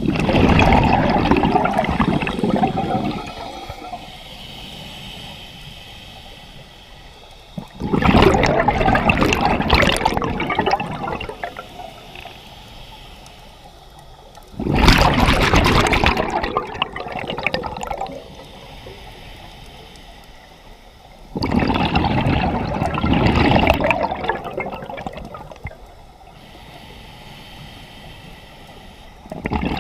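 A scuba diver's exhaled bubbles leaving the regulator in bursts of about three seconds, roughly every seven seconds, with a quieter hiss in between.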